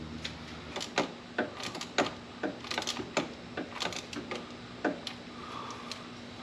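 Irregular small clicks and taps of hands working hose and fittings in an engine bay, about fifteen over five seconds, then stopping. A steady low hum runs underneath.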